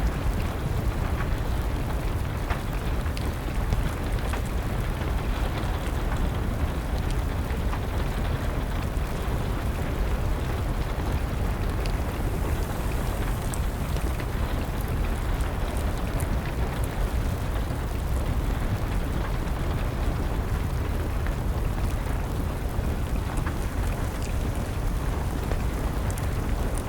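Steady rain mixed with a crackling wood fire: an even hiss over a deep rumble, with small pops scattered through it.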